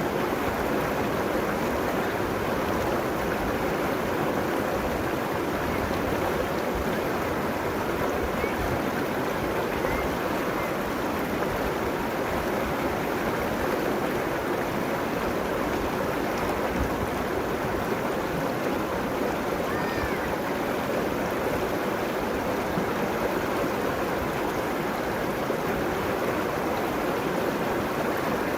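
River water running steadily over its bed and along the banks, a continuous even rush.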